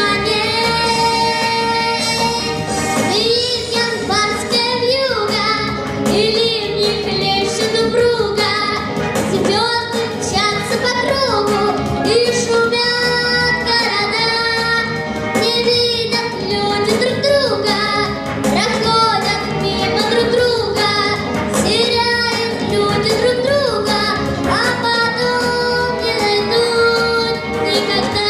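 A girl singing a song with instrumental accompaniment.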